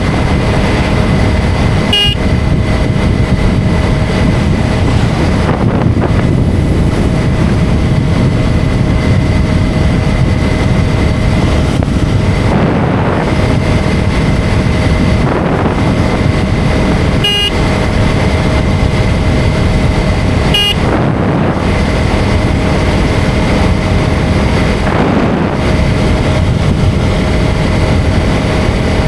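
KTM 250 Duke motorcycle under way, its single-cylinder engine running steadily under heavy wind rush. Three short horn toots sound, one near the start and two more later, about three seconds apart.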